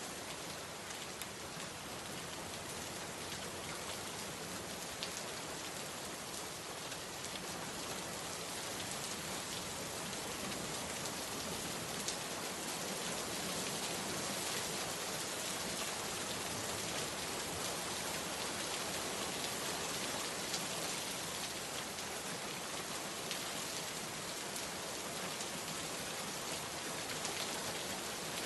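Steady rain falling, an even hiss with scattered drops pattering on surfaces, heard from outside a window.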